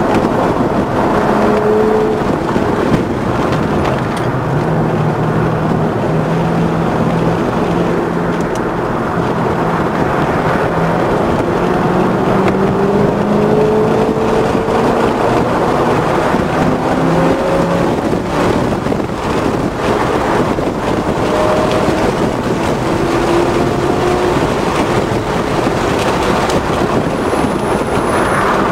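Inside the cabin of a 2006 Chevrolet Corvette Z51 at track speed, its V8 engine running hard under load. The engine's pitch climbs several times as the car accelerates out of corners, over a constant wash of wind and tyre noise.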